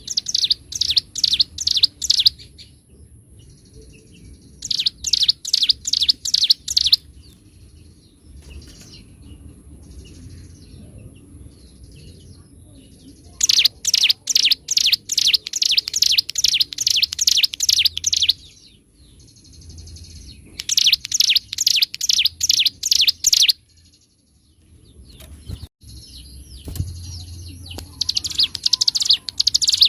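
Ciblek gunung, a mountain prinia, singing its rapid drilling song. Fast runs of sharp, repeated high chirps, several a second, come in loud phrases of two to five seconds, with quieter chirps in the pauses between them.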